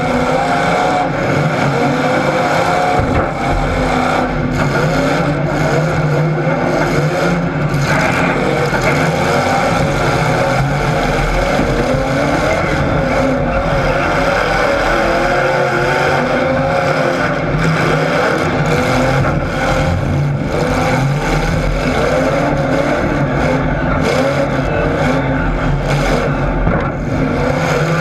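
Several car engines running hard at once, revving up and down repeatedly in an overlapping, continuous din.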